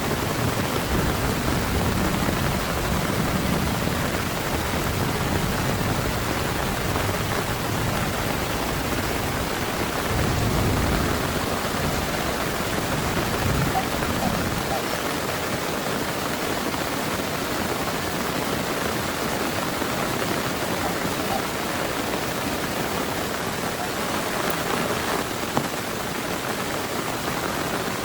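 Heavy rain falling steadily, with low rumbles of thunder in the first half that die away about halfway through.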